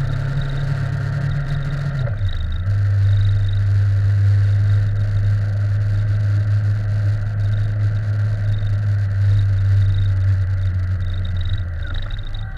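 Motorcycle engine running at a steady cruising pace, its note dropping about two seconds in as if shifting gear and changing again near the end, with a faint on-and-off high whine over it.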